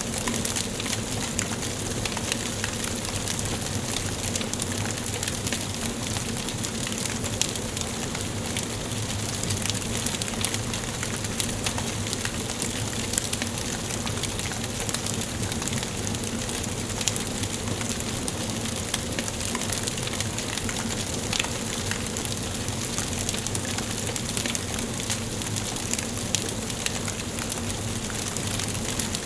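Wood fire burning in a fireplace, with steady hissing and a continuous scatter of small crackles and pops. Now and then a sharper pop stands out.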